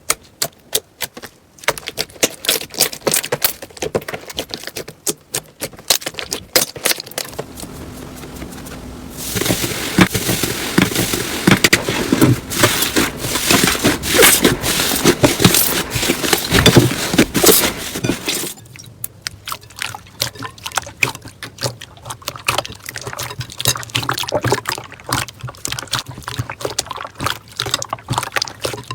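Slime being squeezed and kneaded by hand: a continuous run of wet clicks, pops and squelches, denser and louder for about nine seconds in the middle.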